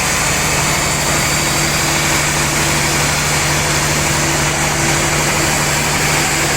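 Sawmill machinery running steadily, a constant low hum with a hiss above it.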